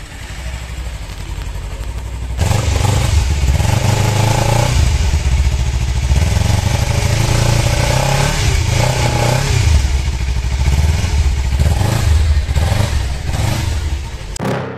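Kawasaki superbike engine running through its exhaust for an exhaust-note check. It turns much louder about two and a half seconds in and rises and falls as it is revved, then stops just before the end.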